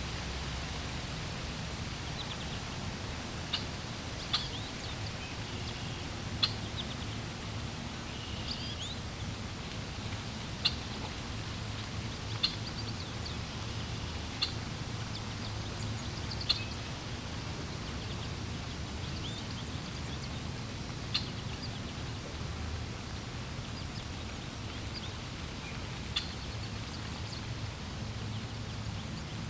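Birds chirping in short, high calls every second or two, over a steady rush of flowing water.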